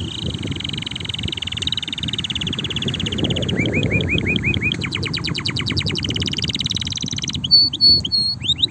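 Male canary singing: long runs of rapid trills that change to a different trill pattern partway through, then short separate notes near the end, over a low steady background rumble.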